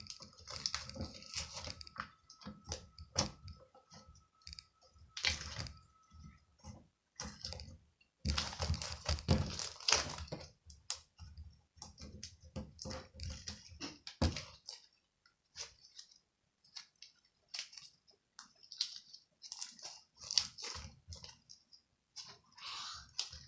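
Irregular crisp crunching and clicking close to the microphone, coming in clusters and thinning out over the second half, with a faint steady tone during the first six seconds.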